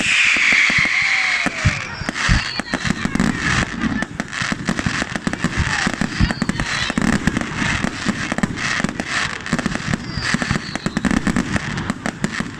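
Fireworks and firecrackers going off in rapid, irregular bangs and crackles, with a few whistles gliding in pitch, over the noise of a crowd.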